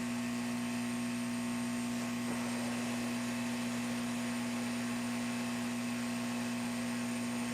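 Steady whir of a hot air rework station's blower: an even rush of air with a constant low hum, unchanging throughout.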